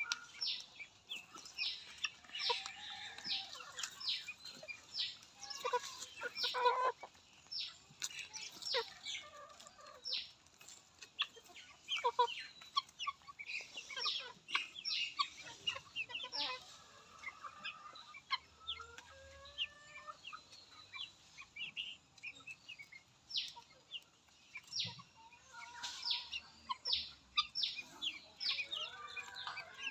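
Chicks peeping in many short, high cheeps throughout, with some lower clucking among them.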